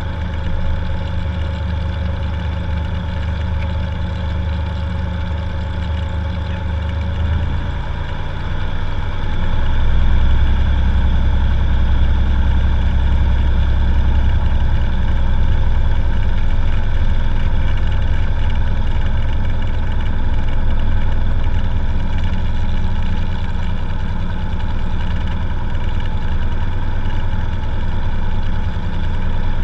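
Cessna 182 piston engine and propeller running steadily. About seven seconds in its note changes, and from about ten seconds in it runs louder, as power comes up.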